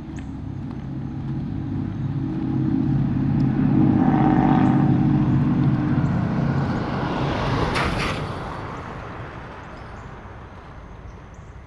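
A car drives past. Its engine hum grows louder over the first few seconds, the tyres hiss most strongly about eight seconds in, and the sound then fades away.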